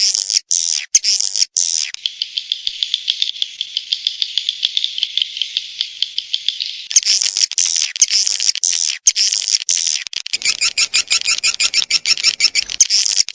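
Swiftlet calls from a swiftlet-house lure recording: rapid high-pitched chirps and buzzing trills, with one long steady buzzing trill from about two to seven seconds in.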